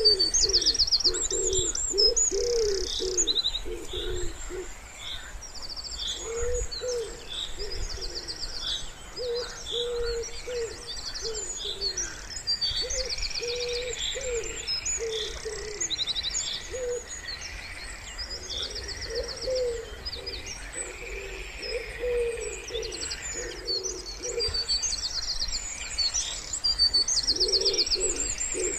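Wood pigeon cooing in repeated phrases, over songbirds chirping and trilling high and fast.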